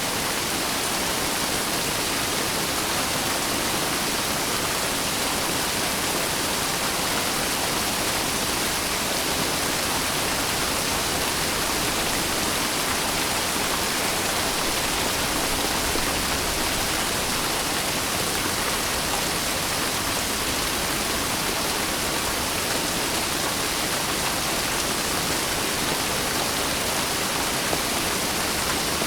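Steady rain falling, a dense, even hiss with no single drops, thunder or changes standing out.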